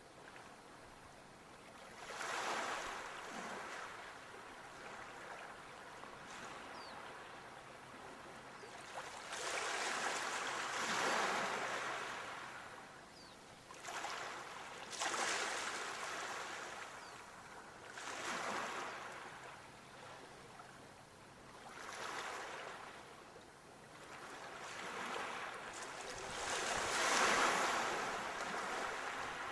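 Sea waves breaking on a shore: surf swells up and washes back every few seconds, with the biggest wave near the end.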